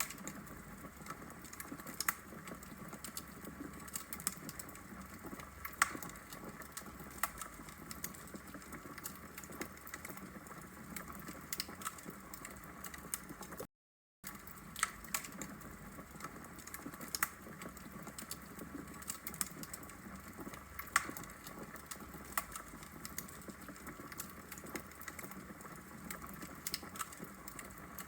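Log fire crackling in a fireplace: sharp, irregular pops and snaps over a soft steady hiss, broken by a brief gap of silence about halfway through.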